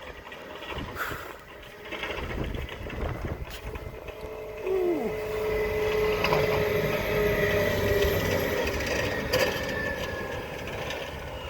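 A motor vehicle's engine running with a low rumble and steady whining tones, growing louder about four and a half seconds in.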